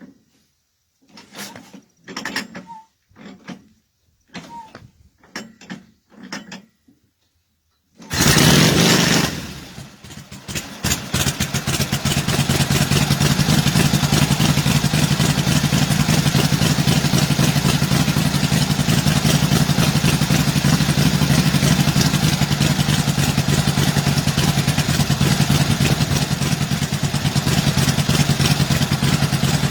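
1948 Indian Chief's side-valve V-twin being cold-started: half a dozen short strokes about a second apart as it is kicked over. It then fires about eight seconds in, falters briefly and settles into steady running.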